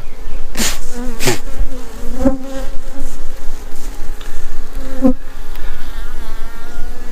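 Honeybees buzzing around an opened hive: a steady droning hum, with several brief louder swells as single bees fly close past.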